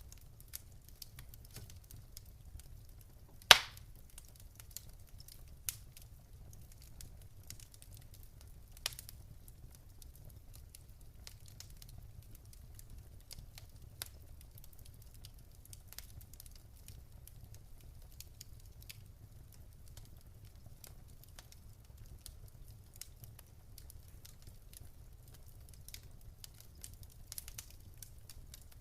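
Wood fire in a fireplace crackling: scattered sharp pops and ticks over a steady low rumble, with one loud pop about three and a half seconds in.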